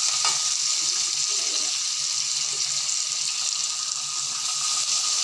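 Chopped onion, tomato, sweet corn and peanuts sizzling steadily in hot oil in a nonstick pan while a spatula stirs them.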